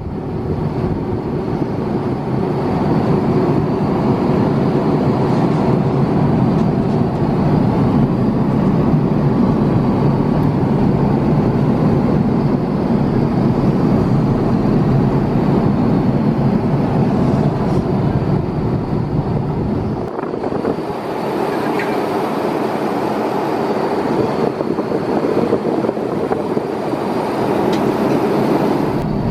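Loud, steady noise of an Airbus A350-900 airliner heard from its cabin: its Rolls-Royce Trent XWB jet engines and the air rushing past. About twenty seconds in the sound shifts, with less low rumble and more hiss.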